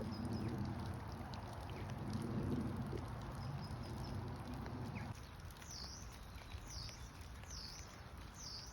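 A bird giving a high call that dips and rises, repeated four times at about one per second in the second half, over low rumbling background noise that drops away about five seconds in.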